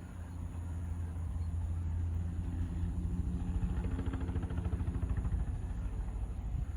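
Crop-spraying helicopter's rotor and engine, a rhythmic low beat that grows louder over the first couple of seconds and then holds steady.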